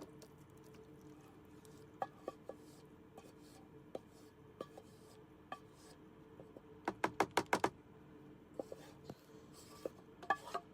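Spoon clinking and scraping against a cooking pot as curry is spooned out into a container, with scattered single knocks and a quick run of about eight taps in the middle. A steady faint hum runs underneath.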